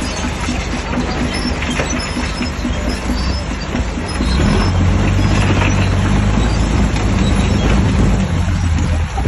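Shantui DH17C3 crawler bulldozer's diesel engine working hard with the rumble and clatter of its tracks. It gets louder about four seconds in and eases off near the end.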